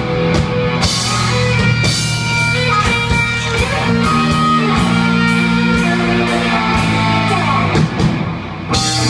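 Heavy metal music played by a band: electric guitars over drums, with a short drop in level near the end before the full band comes back in.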